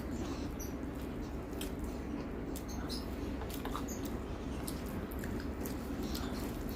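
Close-miked eating sounds: a person chewing a mouthful of food with short, irregular wet mouth clicks and smacks, over a steady low hum.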